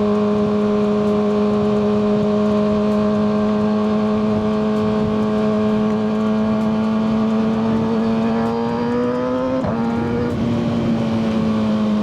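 Kawasaki ZX-6R 636's inline-four engine through a Yoshimura full exhaust, running at a steady cruising pitch under rushing wind. Its pitch climbs slowly, drops abruptly at an upshift near the end, then eases down.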